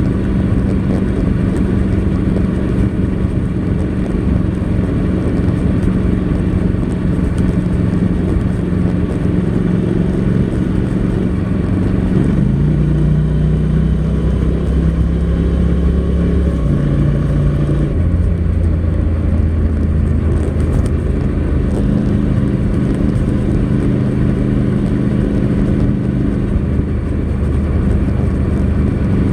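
Honda NC700X DCT's parallel-twin engine running on its stock exhaust while riding. The engine note stays steady, then steps down and back up in pitch a few times, near the middle of the stretch and again a little later.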